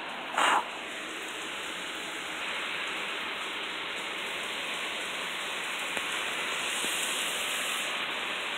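Loud rain falling steadily, an even continuous hiss. A brief, louder noise stands out about half a second in.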